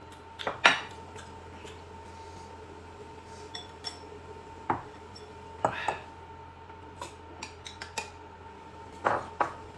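Dishes and cutlery being handled: scattered, irregular clinks and knocks of tableware, the loudest near the start, over a faint steady hum.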